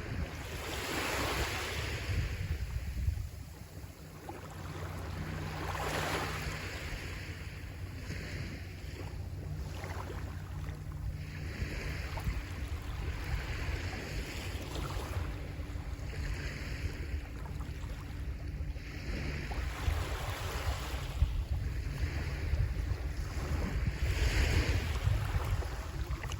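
Small sea waves washing onto the shore, a hissing swell every two to four seconds, with wind rumbling on the microphone.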